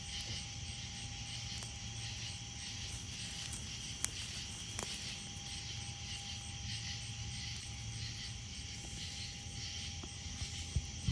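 Crickets and other night insects chirping in a steady, evenly pulsing chorus, with a few sharp pops from a wood campfire, about four seconds in, again about a second later, and near the end.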